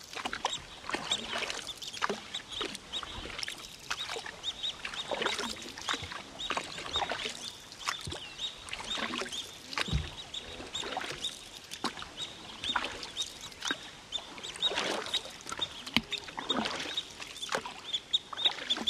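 Birds calling outdoors: many short, irregular chirps and squawks overlapping, with a high repeated chirp running through.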